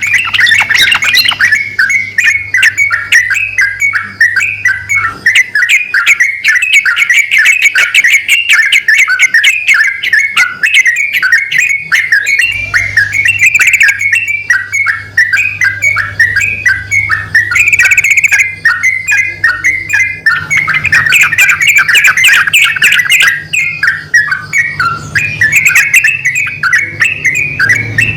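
Male and female yellow-vented bulbuls (trucukan) calling back and forth in a continuous rapid chatter of short bubbly notes, with no break.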